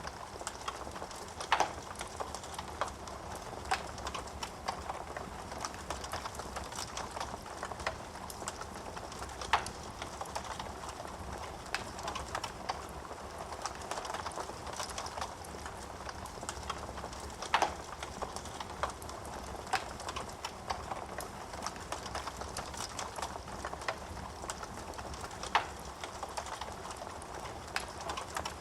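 Wood fire crackling in a fireplace: a steady hiss of burning with frequent small snaps of the wood and a few louder pops.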